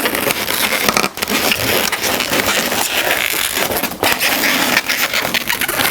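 Latex 260 modelling balloons squeaking and rubbing against each other as two pinch twists are twisted together, a dense run of squeaks and crackles.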